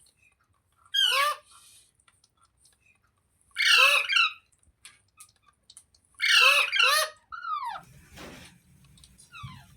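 Green parrot squawking: three loud bursts of rapid, harsh screeching notes a few seconds apart, followed by fainter squeaks and a short rustle near the end.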